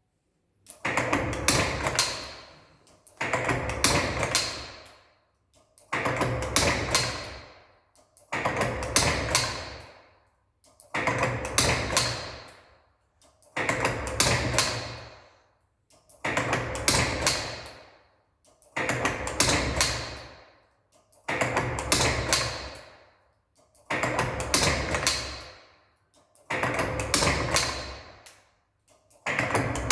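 CNC lathe tool turret indexing over and over on a test run, about once every two and a half seconds. Each index starts suddenly, runs for about a second with sharp clicks, then fades away.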